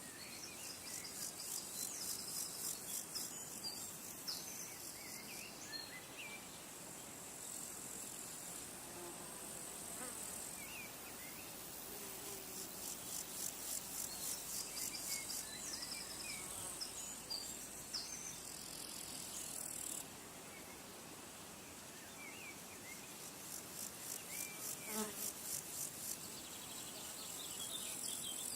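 Insects trilling high and fast in a steady pulsing rhythm, with scattered short bird chirps; the background changes abruptly about two-thirds of the way in.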